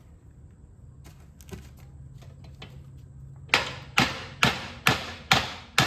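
Hammer striking the end of a John Deere 318 mower-deck spindle shaft to drive it out of its two bearings: after some light handling clicks, six sharp, ringing blows about two a second start a little past the middle.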